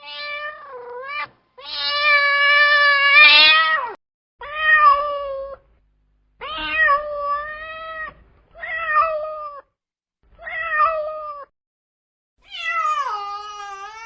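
A cat meowing over and over: seven drawn-out meows with short gaps between them. The second is the loudest and longest, lasting over two seconds, and the last drops in pitch.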